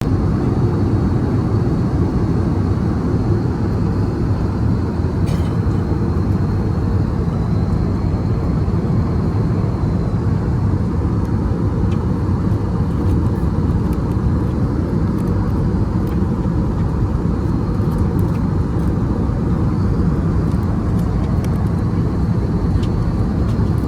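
Steady in-flight cabin noise of an Airbus A320: the low, even rush of the engines and airflow heard inside the passenger cabin.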